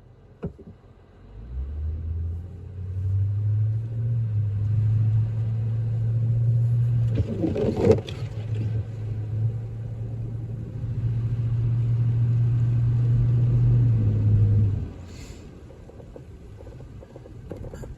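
A vehicle's low engine drone rises in pitch as it speeds up over the first couple of seconds, then holds steady for about twelve seconds before dropping away suddenly. A brief loud rush comes about eight seconds in.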